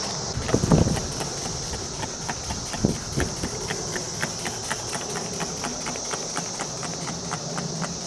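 A hand trigger spray bottle pumped quickly, its trigger clicking about four times a second as it sprays degreaser onto a greasy grill, after a few handling knocks just under a second in.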